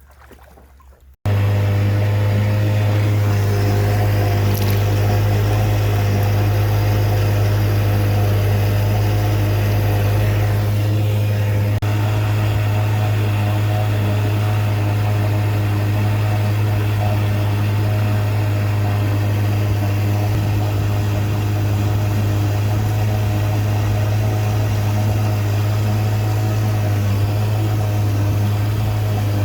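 Small outboard motor, a 4-horse Johnson, running steadily at a constant speed, a loud even drone that starts abruptly about a second in.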